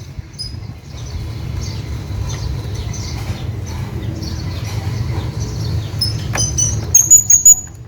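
Hanging parrot calling with short, thin, high-pitched notes: scattered calls at first, then a quick run of loud ones near the end, over a steady low rumble.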